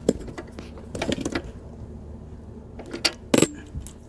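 A few metal clinks and rattles of a wrench working a 3/8 bolt that holds a Briggs & Stratton engine to a steel mower deck, the loudest near the end.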